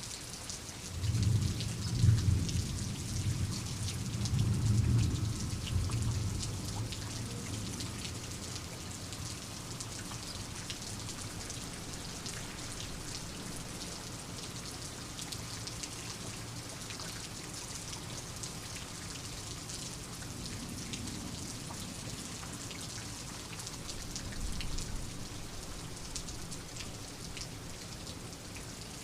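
Steady rain with many distinct drop hits, and a roll of thunder that rumbles in low about a second in and fades over several seconds; a fainter rumble comes near the end.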